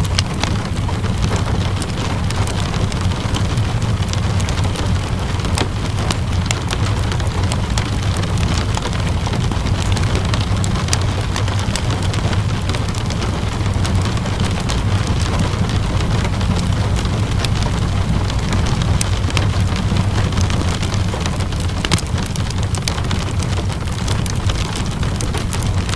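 Steady rain with a deep, even rumble underneath, mixed with scattered sharp crackles from a fireplace.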